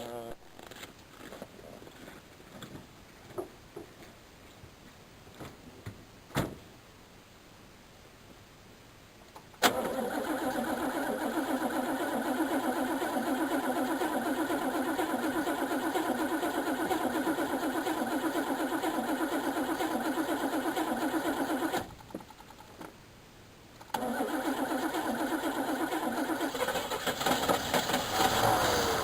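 The cold 305 small-block V8 of a 1988 Chevrolet Caprice Classic being cranked on its starter in a winter cold start. It cranks steadily for about twelve seconds, stops, then cranks again about two seconds later. There is a sharp click a few seconds before the first crank.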